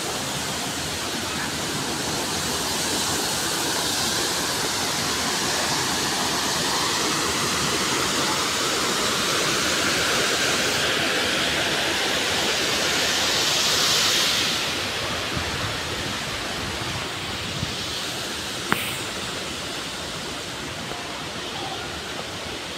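Steady rushing of a waterfall, swelling a little toward the middle and easing off afterward, with one short sharp click about three-quarters of the way through.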